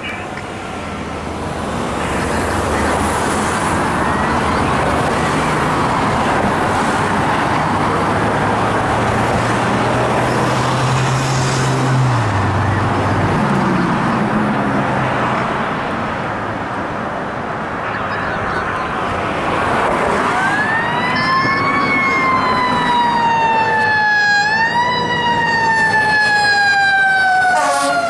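A fire engine responding code 3: a loud rush of engine and road noise, the low engine note dropping partway through. About two-thirds of the way in, its siren wails in slow falling sweeps that jump back up in pitch twice.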